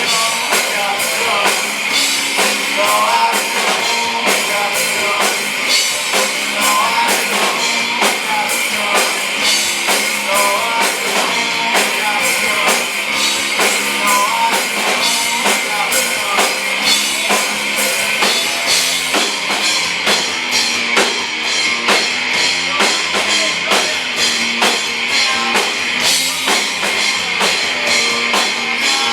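Rock band playing live, with a steady drum-kit beat, electric guitar and singing.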